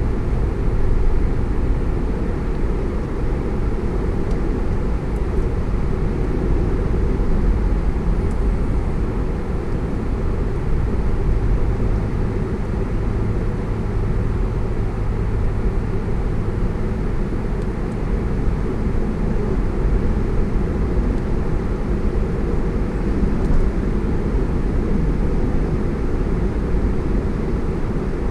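A car driving along at steady speed: a continuous low rumble of road and engine noise that holds steady throughout.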